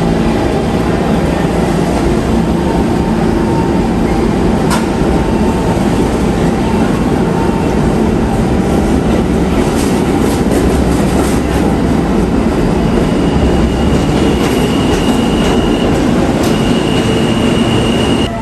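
New York City subway train running through a station, a loud steady rail noise with scattered sharp clicks from the wheels over the track. A thin high-pitched wheel squeal sets in about two-thirds of the way through and holds to the end.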